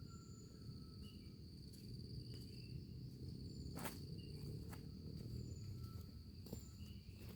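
Insects trilling steadily at one high pitch, with short faint chirps above it and two sharp clicks, about four and six and a half seconds in, over a low rumble.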